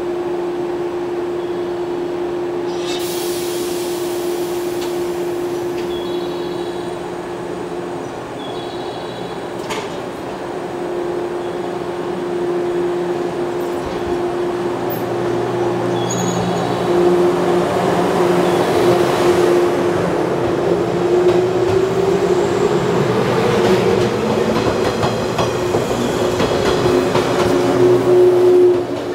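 Electric multiple-unit train pulling out of a station: a steady electrical hum while it stands, a hiss about three seconds in, then the cars start rolling and the motor whine rises in pitch as it gathers speed, growing louder with wheel clatter as the train passes close by.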